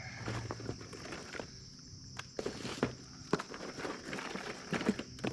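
Irregular footsteps and short knocks, with insects chirring steadily and high in the background.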